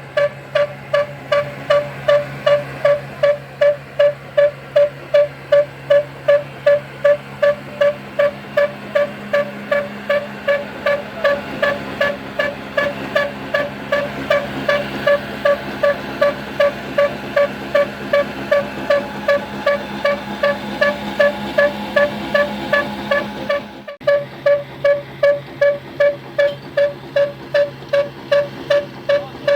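Old slow-running stationary engine driving a village flour mill, chugging steadily at about two and a half exhaust beats a second. The sound breaks off briefly near the end and then the same beat resumes.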